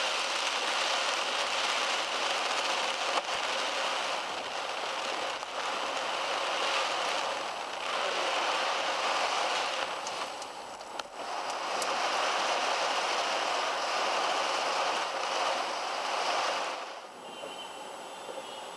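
Heavy rain beating on a car's windshield and roof, heard from inside the car as a steady dense hiss. About seventeen seconds in it drops to a quieter, softer sound.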